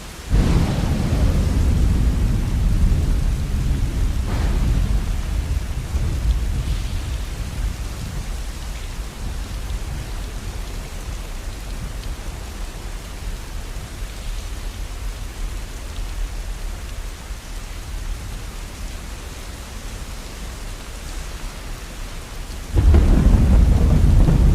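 Steady rain with thunder: a deep rumble of thunder breaks in suddenly just after the start and fades out over several seconds, and a second rumble starts suddenly near the end.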